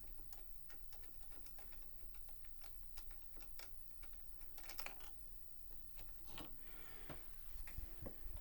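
Light, irregular clicks and taps of small piano parts being handled during disassembly, several a second, with a brief scrape about two-thirds of the way through.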